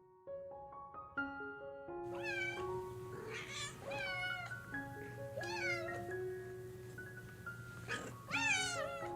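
A cat meowing about five times, each meow a short rising-then-falling call, over background music of steady plucked or keyed notes.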